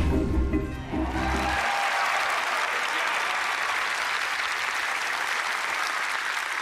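Studio audience applauding steadily; a brief burst of music in the first second and a half gives way to the clapping.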